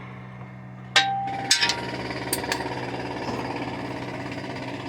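Metal hand tools knocking against metal. A sharp clank about a second in rings briefly, and a few more knocks follow over the next second and a half, over a steady low hum.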